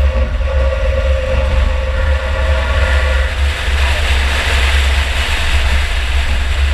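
2004 Chevy Impala race car running steadily, heard from on board: a heavy low rumble under a steady whine, with a rush of noise swelling in the middle while the whine fades, then the whine returns near the end.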